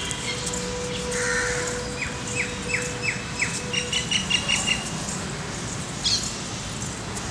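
Birds calling in trees: a run of about five short falling notes, then a quicker series of higher chirps, over steady outdoor background noise.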